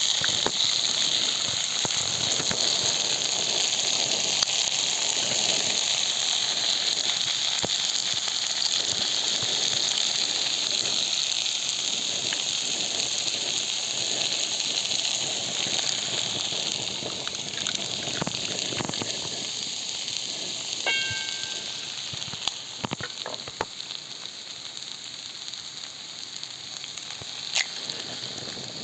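Food sizzling in a frying pan, a steady hiss that slowly dies down, with a few light clicks and a brief high squeak about three-quarters of the way through.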